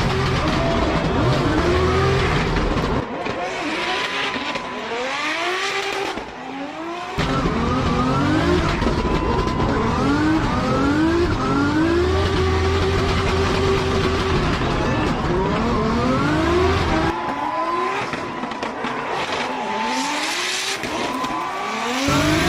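Drift car's engine revving hard, its pitch climbing and dropping back over and over as the throttle is worked, with tyres squealing and skidding.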